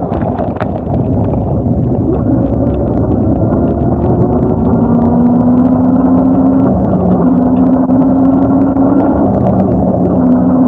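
Motor-vehicle traffic running, a loud rumble with an engine hum that climbs slightly in pitch, breaks off and starts again several times.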